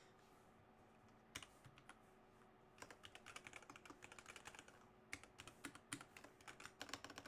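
Typing on a computer keyboard: a few keystrokes about a second in, then quick runs of keystrokes from about three seconds in, with a faint steady hum underneath.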